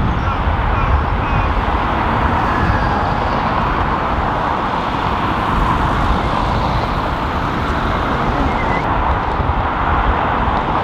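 Steady roar of a jet airliner's engines under strong gusty wind buffeting the microphone, a heavy low rumble that never lets up.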